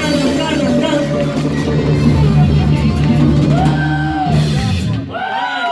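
Live rock band playing, with electric guitar, bass and drum kit, that stops about five seconds in; voices follow near the end.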